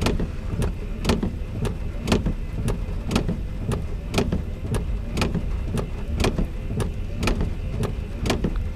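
Freight train cars rolling past, their wheels clicking over the rail joints in an even rhythm about once a second over a steady low rumble.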